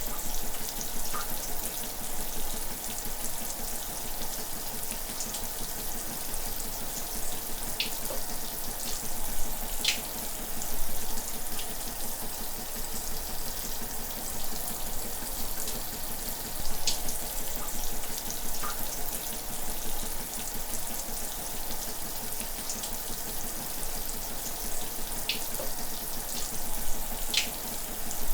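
Shower running steadily: an even hiss of falling water, with a few brief splashy ticks scattered through it.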